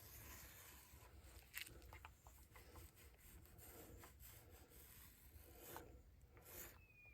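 Near silence with faint rubbing and a few small clicks: hand work on fibreglass cloth and resin on a drum shell.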